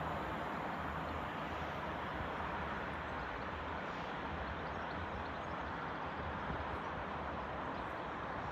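Northern class 195 diesel multiple unit moving along the line, a steady rumble and rush of noise that slowly eases off.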